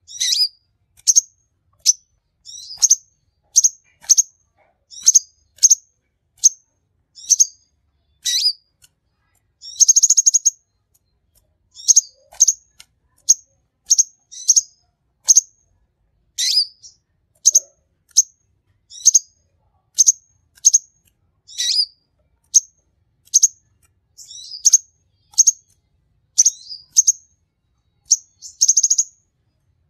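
A caged kolibri (sunbird) of the kind sold as 'king konin' sings continuously with sharp, high chirps repeated about one to two a second. It breaks twice into a longer buzzy trill, once near the middle and once near the end.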